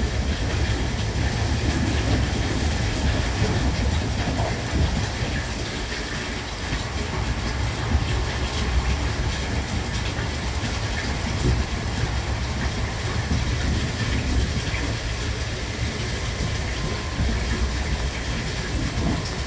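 Thunderbird limited express train running at speed: a steady low rumble with wheels clattering on the rails.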